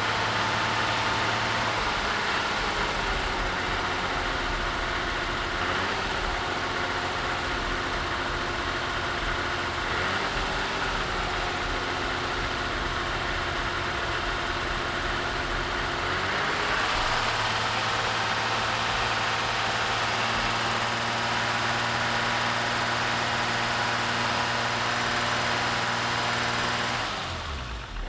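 BMW E30's M20 straight-six idling with a vacuum leak. The idle note shifts a couple of times as the open vacuum nipple under the back of the throttle body is covered with a finger, which the owner takes as the cause of the leak. The engine stops near the end.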